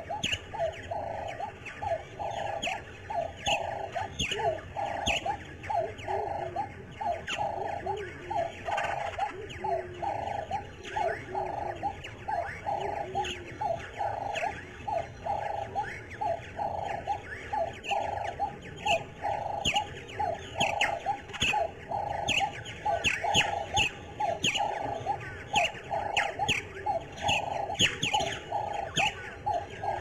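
Birds chirping: many short, quick falling chirps, over a lower call that pulses steadily about twice a second.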